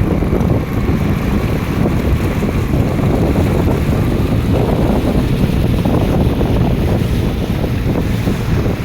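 Strong wind buffeting the microphone in a loud, steady rumble, with waves washing underneath.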